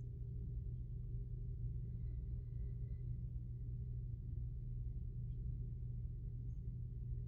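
Steady low hum with no other events.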